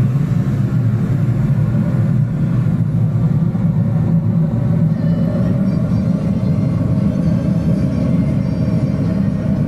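Bronze-melting furnace burner running flat out, a loud, steady low rumble of flame, with a faint steady hum that comes through more clearly about halfway. The furnace is at full heat, melting a charge of bronze ready for pouring.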